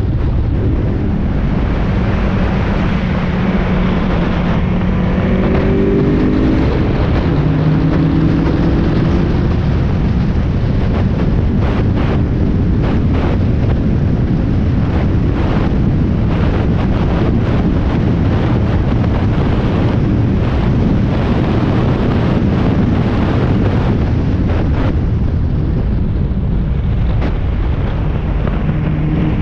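Inside a Spec Miata race car on track: the four-cylinder engine note drops away early, and wind and road noise buffet the microphone while the car rattles and knocks over the surface. Near the end the engine note climbs again as the car accelerates.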